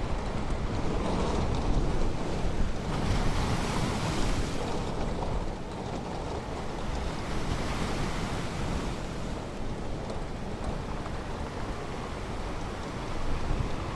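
Ocean waves washing onto a beach, with a louder wave breaking about three seconds in and a smaller one a few seconds later, over a steady rumble of wind on the microphone.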